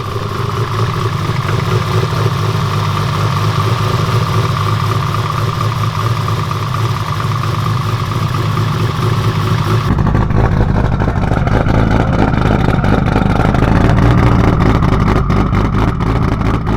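Stroked Nissan RB28DET straight-six with a single turbo, running at a choppy idle. About ten seconds in, the sound changes abruptly and becomes deeper and heavier.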